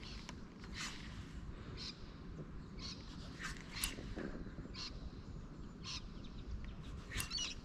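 Birds calling in short, separate calls every half second to a second or so, over a low steady background rumble.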